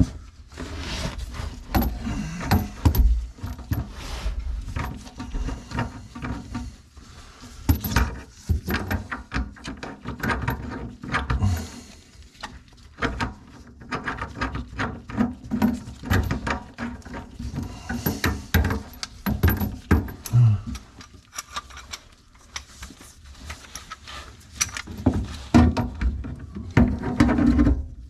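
Irregular metal clicks, knocks and rattling of hand tools and faucet fittings as a faucet's parts are put back on and tightened.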